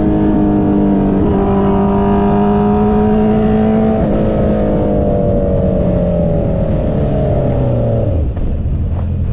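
Motorcycle engine running at high revs over a steady rushing noise. Its pitch climbs slowly with a couple of small steps, then falls steadily as the bike slows, and drops sharply to a low, even run near the end.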